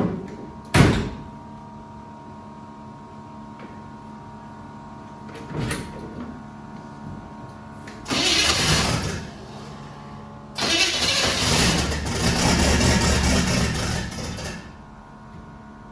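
Starter cranking the turbocharged 1962 Chevy's V8 in two tries, about a second and then about four seconds, without the engine catching: plug wires 5 and 7 are swapped after a new distributor was fitted. A sharp thump comes about a second in.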